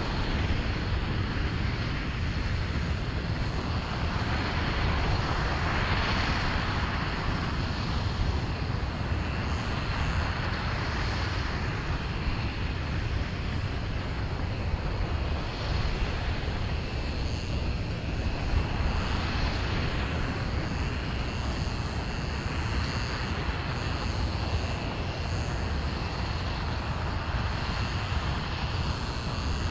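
Aerojet Rocketdyne RS-25 liquid-hydrogen, liquid-oxygen rocket engine firing on the test stand: a steady deep noise that swells and eases a little.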